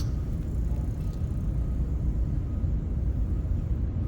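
Steady low rumble of a large exhibition hall's background noise, with no distinct events.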